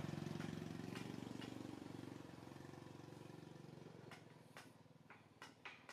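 A small motorbike engine runs with a low, rapid pulsing and fades away over a few seconds. A few sharp clicks follow near the end.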